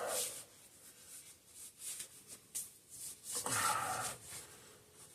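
Faint handling noises: light rubbing and scraping, with a longer, louder rub about three and a half seconds in.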